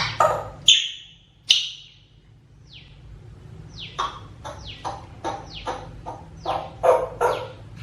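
Grey parrot calling: two sharp falling whistles near the start, then from about four seconds in a quick run of short calls, about three a second.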